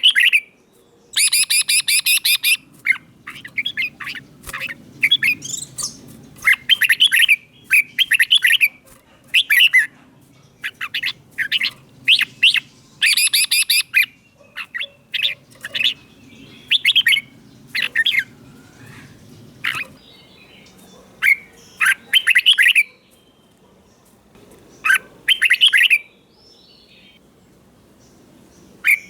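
Red-whiskered bulbul singing: short whistled phrases repeated one after another with brief pauses. A few of the phrases are harsher and rasping.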